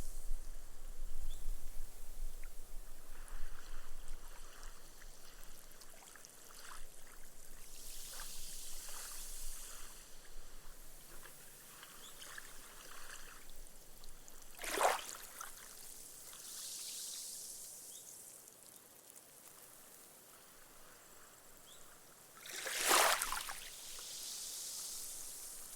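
Small, gentle sea waves washing up a sandy beach and soaking into the sand, fizzing and crackling as the foam bubbles burst. The hiss swells and fades in long, slow cycles. A wavelet slaps louder twice, about midway and near the end.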